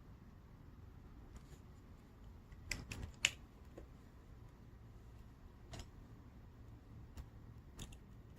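Gel pens being handled on a tabletop: a few sharp plastic clicks and taps, a quick cluster of three about three seconds in, the loudest of them, then single clicks spaced a second or two apart, over a faint steady hum.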